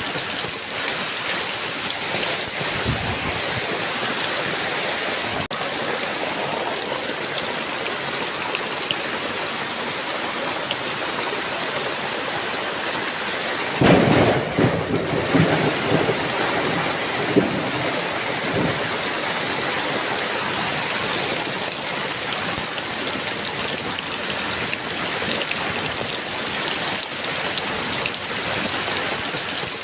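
Heavy rain falling steadily, with a sharp thunderclap about halfway through that rolls on in rumbles for several seconds before fading back under the rain.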